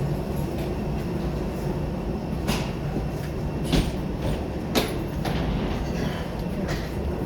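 Train running: a steady low rumble with a few sharp knocks from the rail car.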